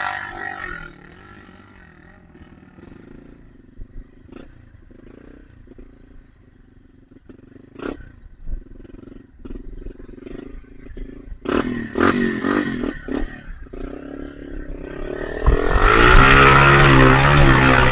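A trail motorcycle's engine drops to a low running note, with scattered sharp knocks and clacks in the middle. Near the end it is revved hard with a rising pitch.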